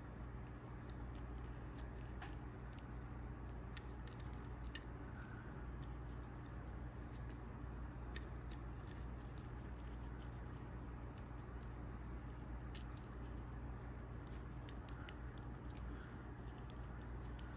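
Faint clicks, ticks and scratches of hands working a diecast toy car free of its packaging and picking at rubber bands melted onto it, over a steady low hum.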